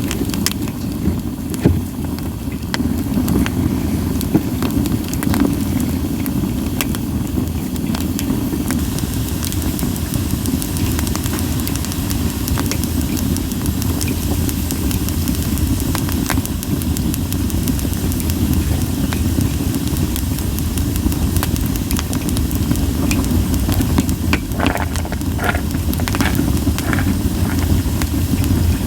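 Split sawtooth oak (kunugi) firewood burning in a campfire: a steady low rumble of flames with many scattered sharp crackles and pops.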